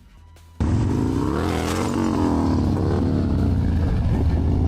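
Quiet for about half a second, then a vehicle engine starts running loudly over a deep steady rumble of wind and road noise, its pitch rising and falling as it revs.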